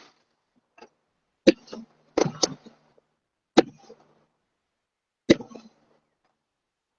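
People coughing: four separate coughs spread across a few seconds, each sharp at the start and trailing off quickly.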